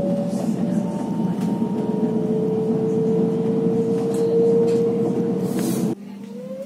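Vienna S-Bahn electric train running at speed, heard from inside the carriage: a steady rumble of wheels on rails with a faint electric whine that rises slowly. About six seconds in the sound drops abruptly and a new whine starts climbing in pitch.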